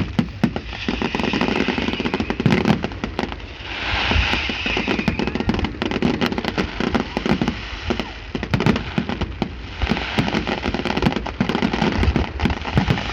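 Fireworks going off: many sharp cracks and pops in quick, irregular succession.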